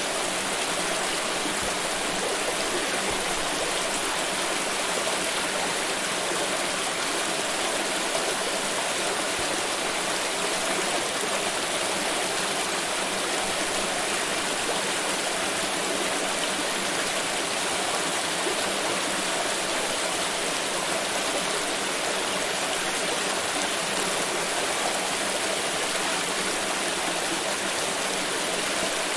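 Water pouring in a continuous stream, an even, unbroken rushing splash.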